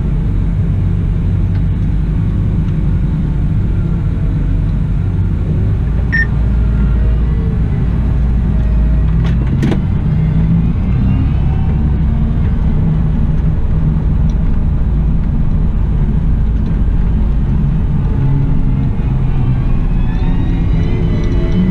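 Cat 972M XE wheel loader's diesel engine running under working load, its pitch rising and falling as the revs change, with one sharp click about ten seconds in.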